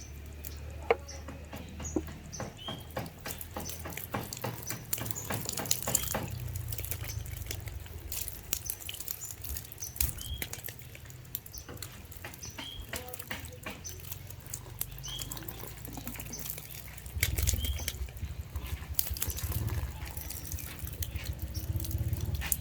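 Water dripping and splashing in scattered small spatters, with many sharp clicks.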